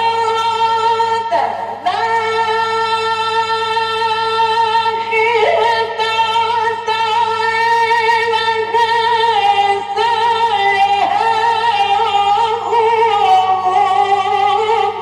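A man's voice reciting the Quran in the ornamented mujawwad style, holding long melismatic notes with wavering pitch and a short breath about a second and a half in. A steady low hum from the old recording runs underneath.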